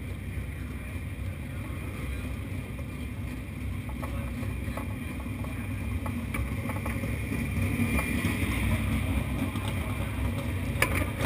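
Low, steady rumble of race car engines that slowly grows louder, with a few sharp clicks near the end.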